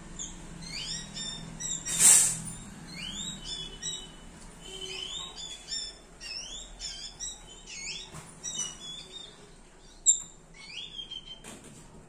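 Small birds chirping: a stream of short, rising, high chirps as a baby bird is visited by an adult that comes to feed it. A brief loud rush of noise about two seconds in and a sharp click near ten seconds.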